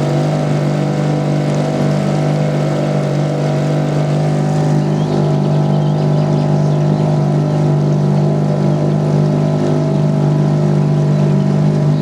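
Fisher 2.5T small outboard motor running at a steady speed, pushing the boat along.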